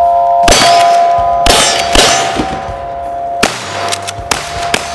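Metal struck hard several times, each strike followed by a sustained ringing clang.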